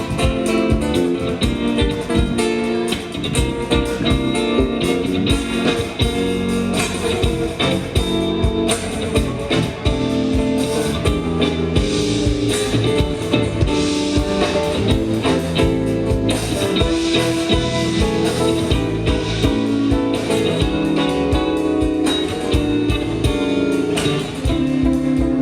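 A live band playing an instrumental passage, led by guitars with drums.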